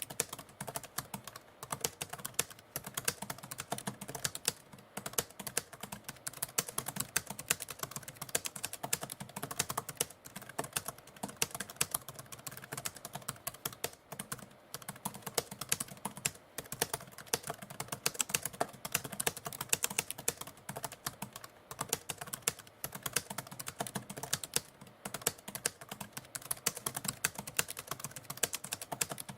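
Typewriter keys being struck in a fast, continuous run of clacks, several a second.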